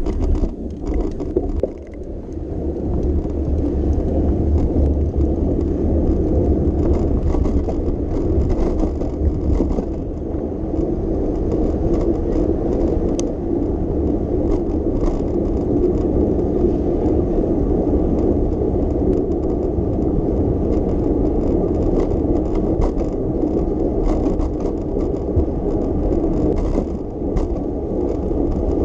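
Bicycle riding along city streets: steady tyre and road rumble with many small rattles and clicks from the bike.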